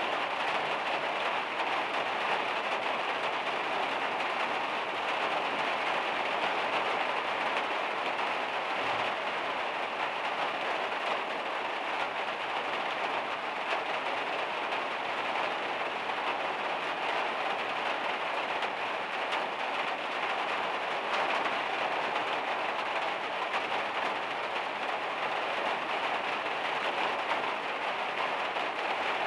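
Heavy rain falling steadily on the metal roof of a van, an even hiss of many drops with no let-up.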